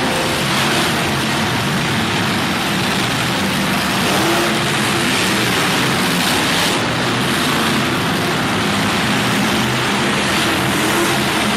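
Monster truck engine running loud and steady, with some revving.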